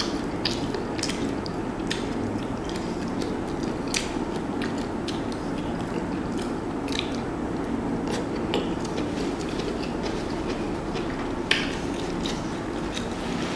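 Close-up chewing and mouth sounds of a person eating seafood boil (shrimp, corn, eggs) with saucy fingers: many short wet clicks and smacks over a steady low background hum, with one sharper click about eleven and a half seconds in.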